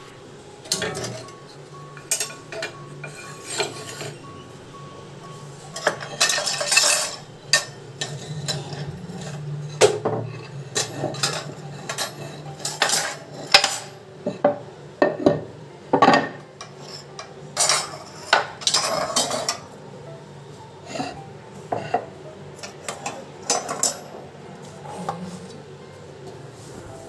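Dishes, metal utensils and cutlery being handled: irregular clinks and clatters, with longer scraping spells twice.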